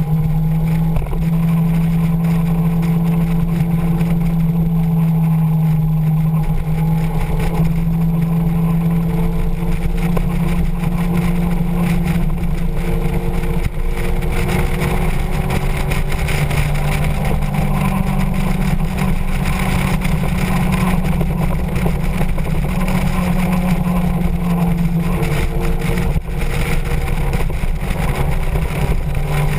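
Motorcycle engine running steadily at road speed over a constant rushing noise. The engine note rises a little about halfway through, holds, and settles back down near the end.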